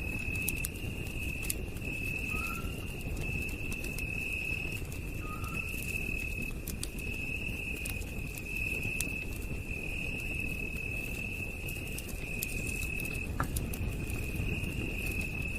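Night insects trilling steadily at a high pitch in repeated pulses, over a campfire's low rumble and scattered small crackles. A short soft chirp sounds twice in the first few seconds, about three seconds apart, and one sharper crackle comes near the end.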